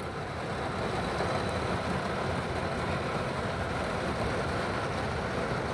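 Heavy rain drumming steadily on a car's roof and windows, heard from inside the cabin.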